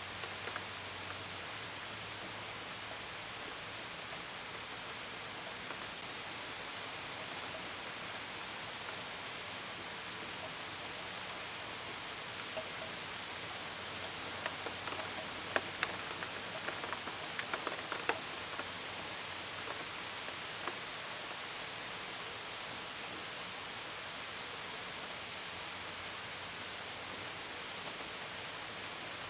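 Steady rain falling, with the patter of drops against a window and gutters and a brief run of louder, sharper drips about halfway through. Faint cricket chirps repeat in the background.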